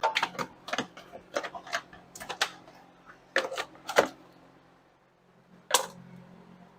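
Hand tools clicking and tapping sharply and irregularly against metal and plastic fasteners, about a dozen clicks in the first four seconds and one more near the end, over a faint steady hum.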